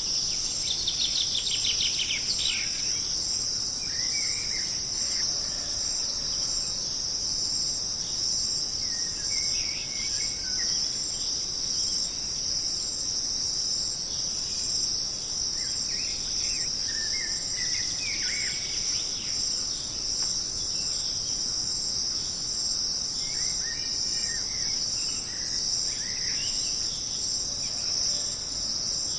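Jungle ambience: a steady, high insect chorus runs throughout, with scattered short bird calls over it and a fast ticking trill in the first couple of seconds.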